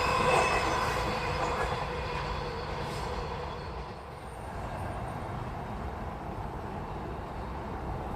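Train passing and moving away: its running noise fades over the first four seconds, then settles into a steady lower rumble with a faint steady whine.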